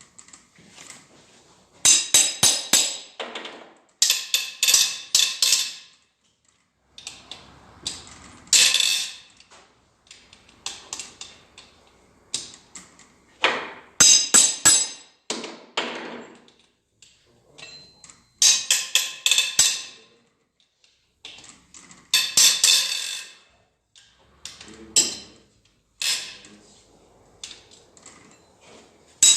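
Ratchet wrench clicking in quick runs of a second or two with short pauses, as the G4NA engine's cylinder head bolts are being backed out.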